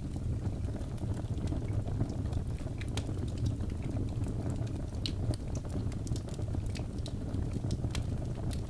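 Fireplace fire burning: a steady low rush of flames with scattered, irregular sharp crackles and pops.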